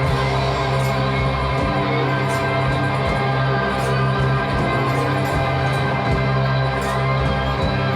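Live rock band playing an instrumental passage: dense sustained chords over a strong, steady low drone, with a cymbal-like crash about once a second.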